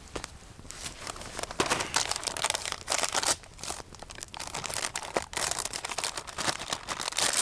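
Food packaging being crinkled, torn open and crumpled by hand in a run of irregular crackles.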